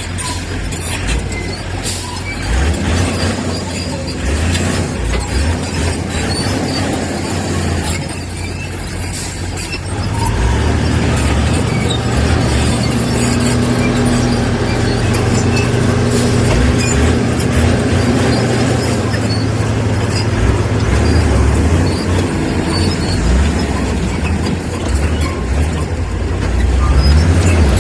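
Heavy earthmoving machine's diesel engine running, with scattered clanks and knocks; about ten seconds in it grows louder and settles into a steady drone, as if working harder.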